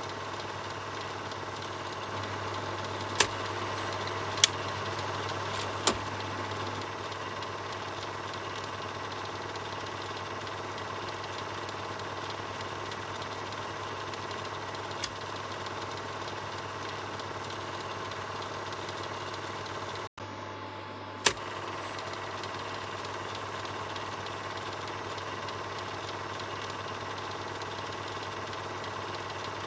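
Film projector running with a steady mechanical whir and hum. A few sharp clicks come about three to six seconds in, and the sound cuts out for an instant about twenty seconds in, followed by another click.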